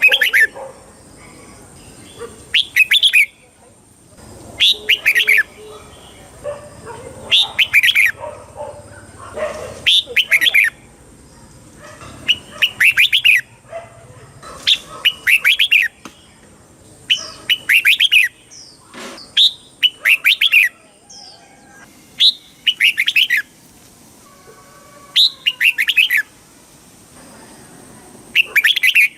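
Red-whiskered bulbul singing: short, bright warbled phrases repeated every two to three seconds. A thin steady high tone runs underneath.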